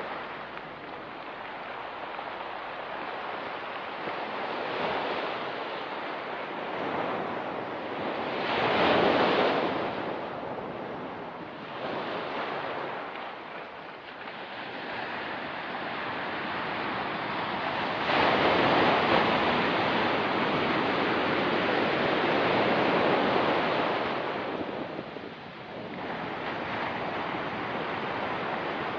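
Ocean surf on a rocky beach, waves washing in and drawing back in irregular swells, loudest about nine seconds in and again through a long surge from about eighteen to twenty-four seconds.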